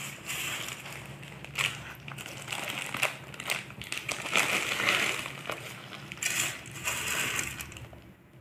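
Irregular crunching of crispy fried food, a run of short crackly crunches with small gaps between them.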